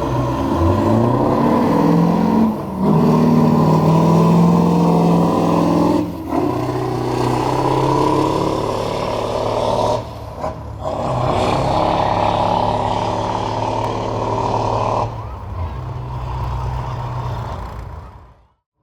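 Scania R620's V8 diesel, tuned to about 1,000 hp, pulling hard under a heavy load and climbing through the gears. The engine note rises and breaks off briefly at each shift, about 3, 6 and 10 seconds in, then eases off around 15 seconds and fades out near the end.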